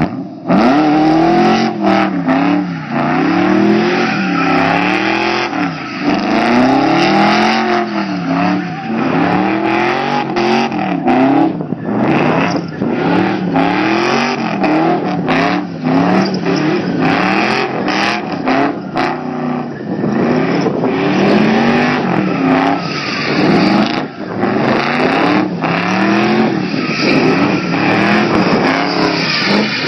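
Muscle car engine revving hard, its pitch climbing and dropping over and over, about once every second or two.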